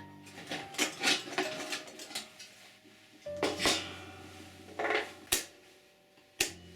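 Metal parts of an old kerosene heater clinking and knocking as they are handled, in a series of sharp, irregular knocks, some ringing briefly.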